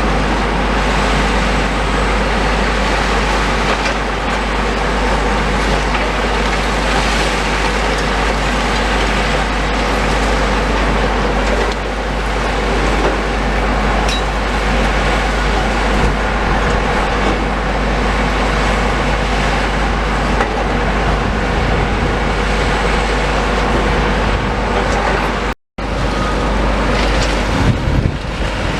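Diesel engines of heavy demolition machinery running steadily under load. The sound cuts out completely for a moment near the end.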